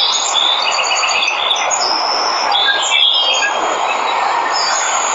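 Steady rush of a waterfall, with birds chirping and trilling over it in short high notes.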